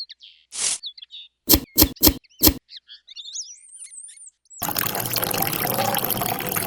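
Several sharp clicks, a brief chirpy twitter, then, about four and a half seconds in, the small motor of a homemade model tractor's water pump switches on and runs with a steady, noisy whirr and water splashing.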